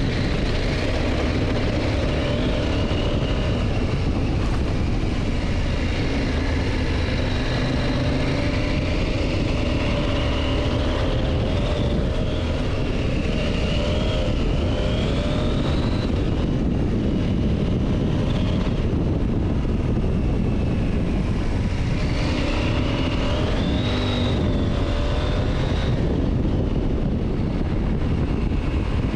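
KTM motorcycle engine running while riding, over a steady rush of wind and road noise. The engine pitch rises twice as it accelerates, about halfway through and again a few seconds before the end.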